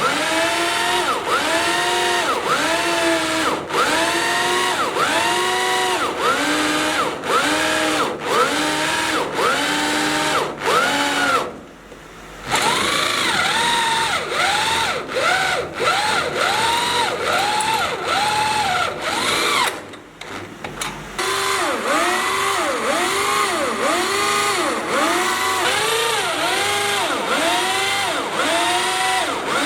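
Electric power drill boring into steel, its motor whine rising and falling in a regular repeating swell about one and a half times a second. It stops briefly twice, about twelve seconds in and again about twenty seconds in, then carries on.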